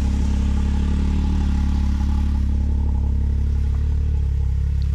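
A vehicle's engine running steadily at an even pitch, with no revving.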